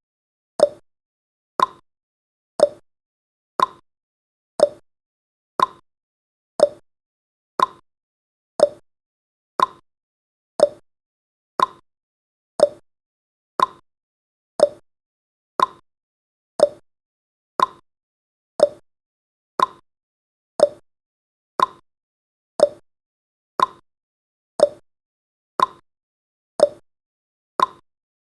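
Countdown timer's ticking sound effect: short clicks about twice a second, alternating between a lower and a higher pitch like a tick-tock.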